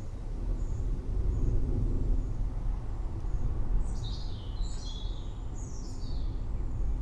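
Steady low rumble of distant rolling thunder, with birds calling over it: short high chirps, then a few falling calls about four to six seconds in.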